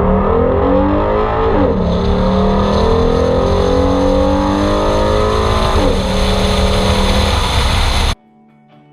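Ford Mustang engine accelerating hard, its pitch climbing, dropping at two gear changes, and climbing again, before the sound cuts off abruptly near the end.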